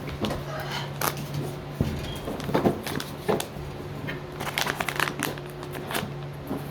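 A package being handled and cut open with scissors: rustling, crinkling and snipping in quick, irregular clicks and scrapes, over a steady low hum.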